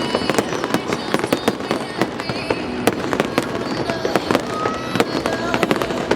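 Fireworks display bursting in rapid succession: many sharp bangs and crackles, several a second, with no let-up.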